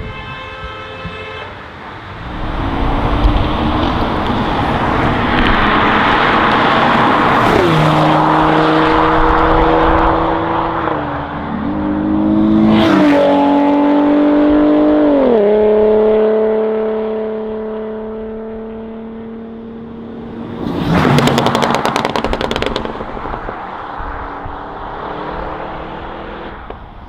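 Sports car engine under hard acceleration, its note climbing through the gears with three quick upshifts, each a sudden drop in pitch before it rises again. A loud, brief rush of noise follows a little past the middle as a car passes close.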